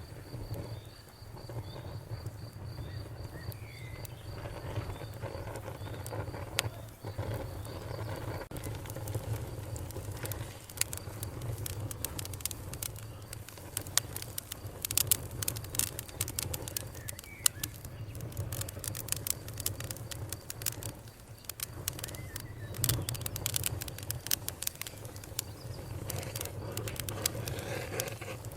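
Wood fire crackling and popping with irregular sharp snaps over a low steady rumble.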